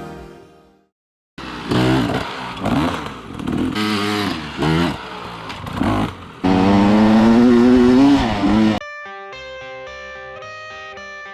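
Dirt bike engine revving up and down in short bursts, then held at a high, steady rev for about two seconds before cutting off abruptly. Guitar music fades out just before and starts again right after.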